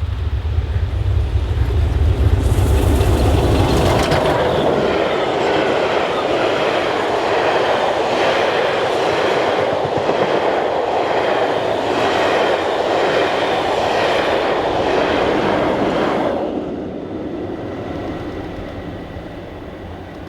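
Steam-hauled passenger train behind LMS 46100 'Royal Scot' passing at speed, its carriage wheels clicking over the rail joints in a regular clickety-clack about once a second. The sound falls away quickly as the train goes by. Wind buffets the microphone with a low rumble for the first few seconds.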